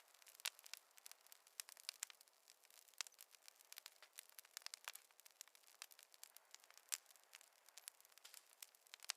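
Wood fire crackling: a steady stream of irregular small pops and snaps over a faint hiss.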